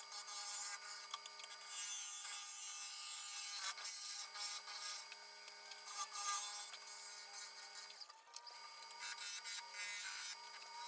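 Wood lathe running, with its steady motor hum under a hiss from a tool working a spinning cottonwood vase blank. Both drop out briefly about eight seconds in.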